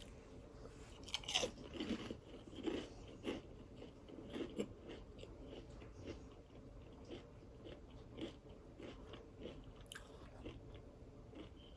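Close-miked chewing and crunching of crispy fried catfish, with irregular crisp crunches that are loudest in the first few seconds, then softer chewing.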